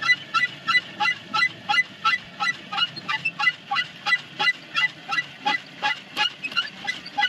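Hand-operated water pump squeaking rhythmically with each stroke of the handle, about three high squeals a second.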